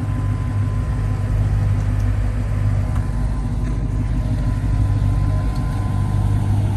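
A car engine idling steadily at low pitch, with no revving.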